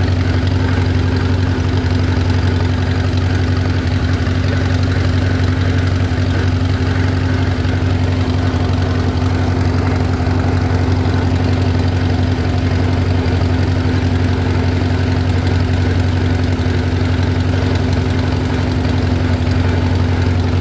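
Allis-Chalmers WD tractor's four-cylinder engine running steadily under way, a low, even drone that runs nicely.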